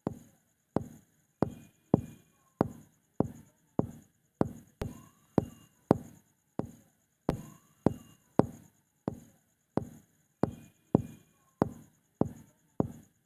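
Sharp knocks repeating at a little under two a second, each dying away quickly.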